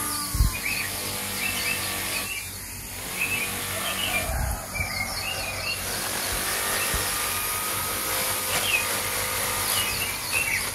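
Small birds chirping again and again over a steady hiss.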